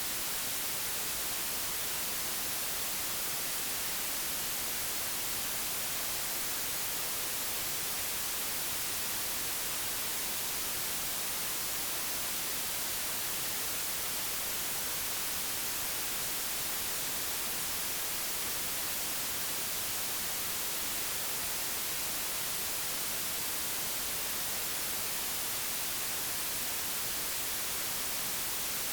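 Steady digitally generated white noise: an even, unchanging hiss, strongest in the high frequencies.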